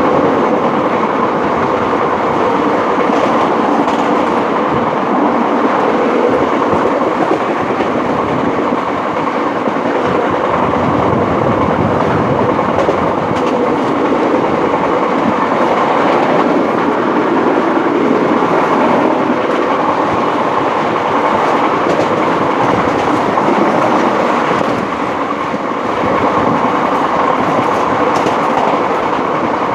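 Janta Express passenger train running at speed, heard from inside a coach: steady noise of the wheels on the rails and the moving coach, easing briefly about 25 seconds in.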